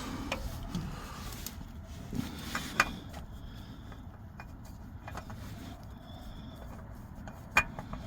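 Hand-fitting of a spin-on oil filter: a few light clicks and knocks, sharpest near the end, over a low steady rumble.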